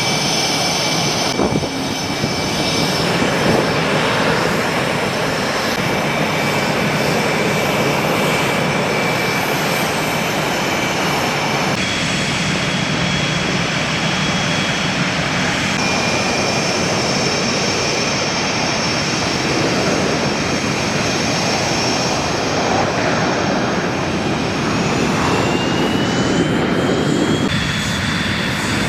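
F/A-18 fighter jet engines running: a steady jet noise with a high whine on top, changing abruptly a few times. Near the end the whine rises in pitch.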